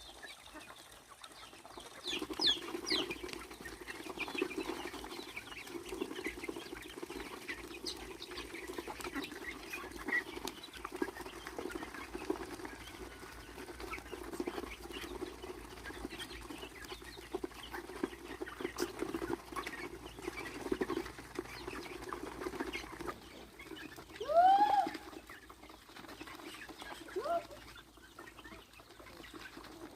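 Chickens clucking steadily in a busy, chattering run. Near the end comes one louder, sweeping squawk, followed by a shorter one.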